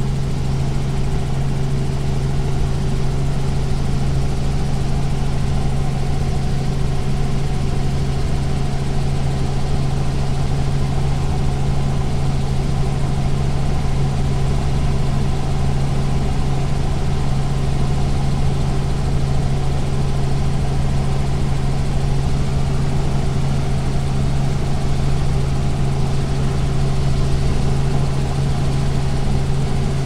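Helicopter cabin interior in flight: the engine and rotors make a steady, unchanging drone with a strong low hum and a fainter higher tone over a wash of noise.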